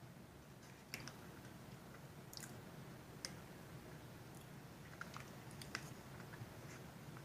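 Faint chewing of a soft chocolate almond butter cup: scattered soft, wet mouth clicks over low room hum.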